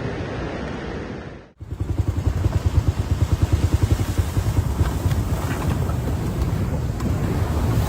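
Strong storm wind buffeting the microphone, a loud, fluttering low rumble. It starts after a brief drop to silence about a second and a half in, where one clip cuts to the next.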